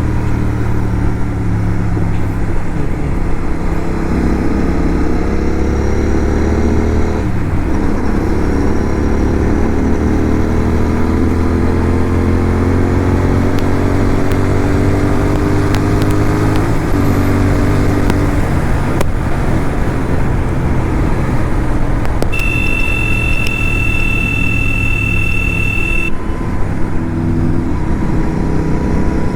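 Motorcycle engine accelerating through the gears: the engine note rises steadily, then drops back at each upshift. About three-quarters of the way through, a steady high tone sounds for nearly four seconds.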